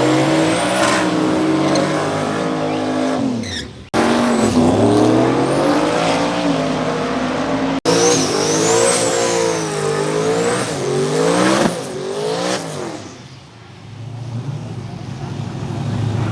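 Drag race car engines at full throttle, pitch climbing and dropping back with each gear shift, in short clips that break off sharply about four and eight seconds in. A high whistle rises and falls over the middle stretch. The sound eases to a quieter, steadier engine hum near the end.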